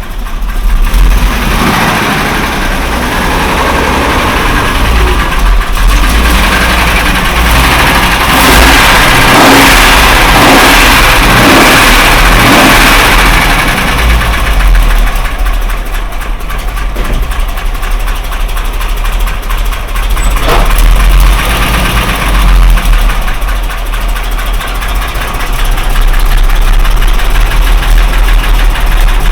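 Mercedes-Benz W123 engine running and revved, loudest for a few seconds in the middle, with the rumbling knock of a spun crankshaft main bearing. The main bearing was found knocked when the oil pan was dropped, even though oil pressure is still there.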